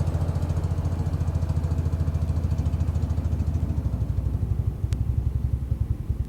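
1975 Case 224 garden tractor's engine running steadily, its firing pulses slowing near the end as it winds down to a stop.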